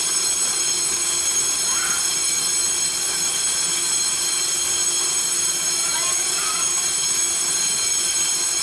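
Train noise: a steady, loud, high-pitched whine with a lower hum beneath it.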